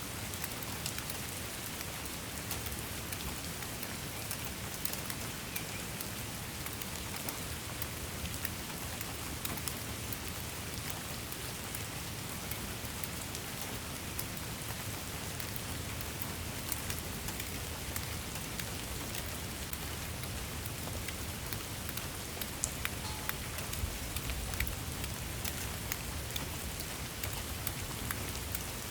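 Steady rain falling on a surface, an even hiss with many sharp individual drop splashes and taps throughout.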